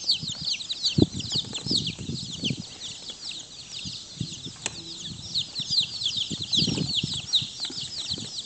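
A crowd of day-old Black Jersey Giant chicks peeping, many short falling chirps overlapping without a break. A few low thumps and rustles come through, about a second in, at two and a half seconds and near seven seconds.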